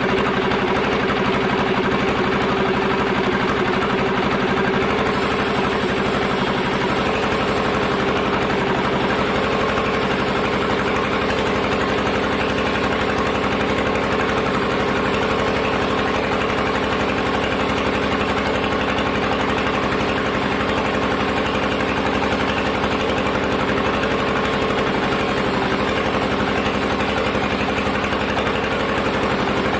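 Sawmill machinery running steadily, an engine-like drone with many steady tones. A high hiss joins about five seconds in.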